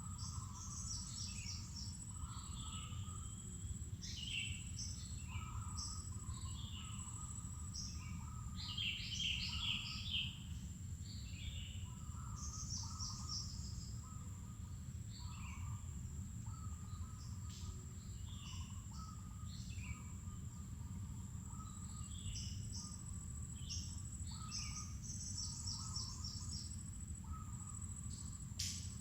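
Wild birds chirping and calling in many short phrases, busiest about a third of the way in, over a steady high-pitched insect drone and a low rumbling background. One sharp click sounds near the end.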